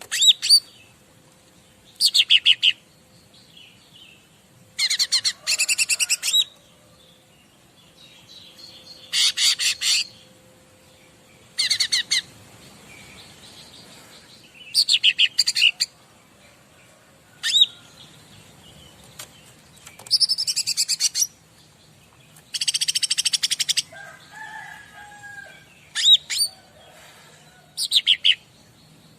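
Cica ranting songbird singing a masteran recording: short, fast, high-pitched twittering trills, each lasting from half a second to about a second and a half, repeated every couple of seconds.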